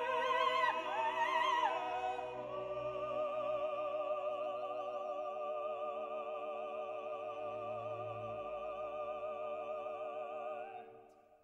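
Operatic singing with wide vibrato over sustained accompaniment. The voice moves between a few notes, then holds one long note that fades out near the end.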